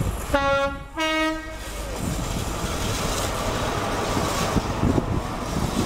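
InterCity 125 (HST) power car sounding its two-tone horn, a short low note then a slightly higher one, each about half a second. The train's Mark 3 coaches then rumble and clatter steadily past on the rails.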